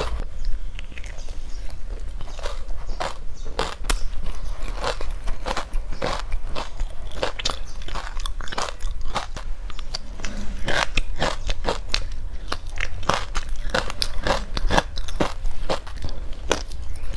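Close-up biting and chewing of frozen creamy matcha ice chunks with buckwheat seeds: a dense, irregular run of sharp crunches and crispy pops.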